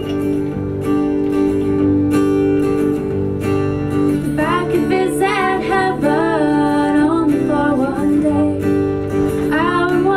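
Acoustic guitar strumming chords, with a woman's voice singing over it from about four seconds in, pausing, then coming back in near the end.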